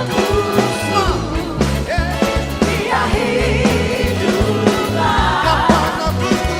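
Church praise-and-worship band playing a song with sung vocals over bass guitar and drums, the bass notes pulsing steadily.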